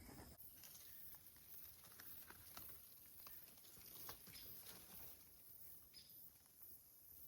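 Near silence in woods: a faint steady high insect chirring, with scattered faint crackles and ticks.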